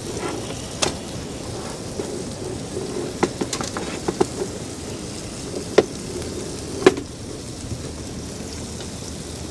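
Sharp metallic clinks and knocks, a handful of them spread through the few seconds, as a steel stove windscreen is set up. Under them runs a steady rush of wind noise.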